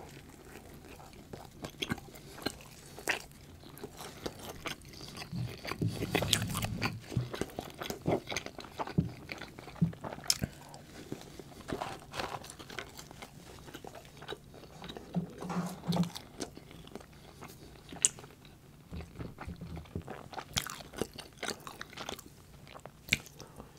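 Close-miked mouth eating sounds: biting into and chewing a small slider sandwich, with scattered sharp wet clicks and smacks.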